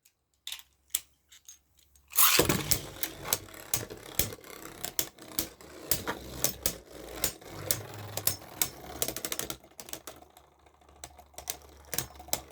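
Beyblade Burst spinning tops launched into a plastic stadium about two seconds in, then spinning and clashing with rapid, irregular plastic clicks and knocks, thinning out near the end.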